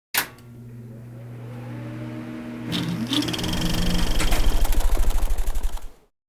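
Subway train approaching: a steady electric hum that grows louder, a rising whine and a high squeal about three seconds in, then a fast rhythmic clatter that builds before cutting off suddenly.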